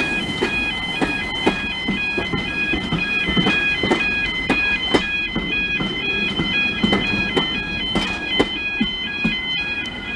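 Two-tone electronic warning alarm, alternating between a higher and a lower tone about twice a second, over a low rumble with scattered sharp knocks. It cuts off abruptly at the very end.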